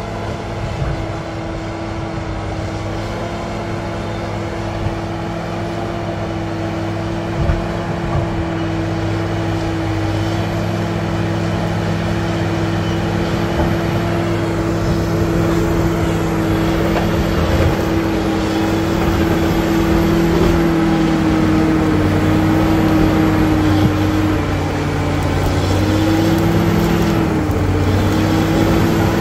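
Caterpillar D7G bulldozer's diesel engine running steadily under load, with a few sharp knocks in the first several seconds. The engine pitch dips briefly a few times near the end.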